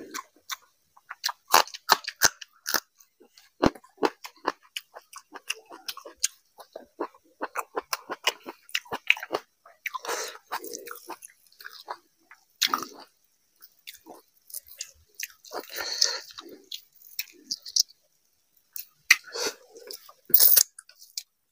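Close-miked chewing of fish curry and rice eaten by hand, with many sharp, wet mouth smacks and clicks at an irregular pace.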